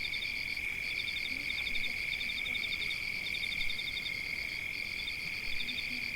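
Forest chorus of calling animals: one unbroken high trill runs underneath higher runs of fast pulsed chirps, which pause briefly every second or two.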